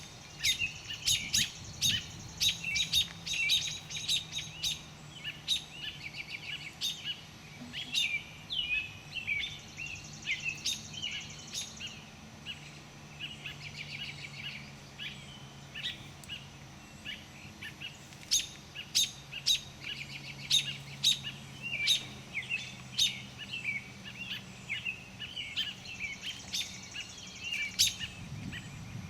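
Small songbirds chirping: sharp, high calls in rapid clusters, thinning out for a few seconds mid-way. They come from around a nest being raided by a black snake. A faint low steady hum runs underneath.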